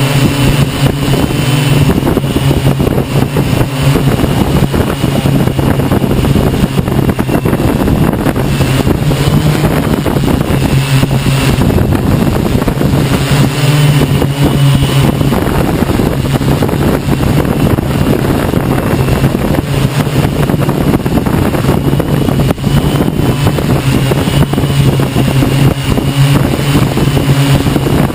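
Hexacopter's electric motors and propellers running with a steady buzz that rises and falls a little in pitch, under heavy rough wind noise on the microphone.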